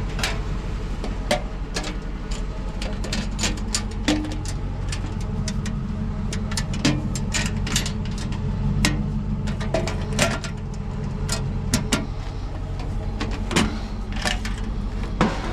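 Scrap being handled and sorted: many short clinks and knocks of objects being moved, over a steady low motor hum.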